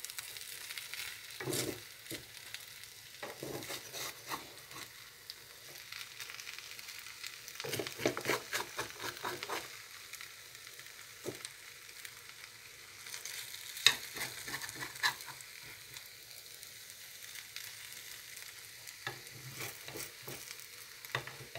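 Potato strips and egg frying in a pan, a steady sizzle, with a metal fork scraping and stirring against the pan at intervals, working loose egg that has stuck to the pan and browned.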